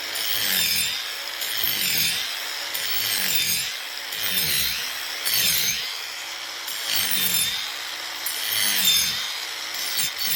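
Angle grinder cutting into the wood of a log's saddle notch in repeated passes, about seven in all. Each time the grinder is pressed into the wood its whine dips in pitch under the load, then climbs back.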